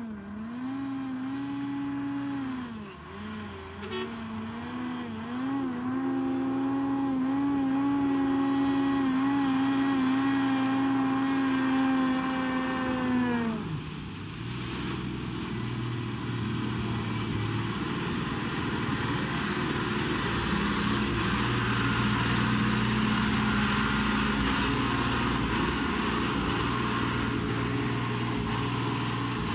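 A vehicle engine running at high, slightly wavering revs for about thirteen seconds, then dropping sharply in pitch and carrying on at a lower, steadier drone with rumbling noise.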